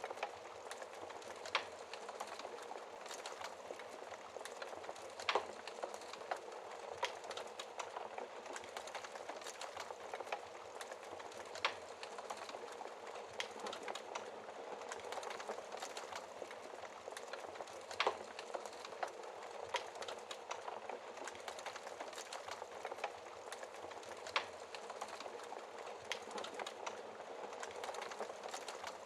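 Wood fire in a fireplace, burning logs crackling steadily with a hiss of flames, small frequent snaps and a few louder pops every several seconds.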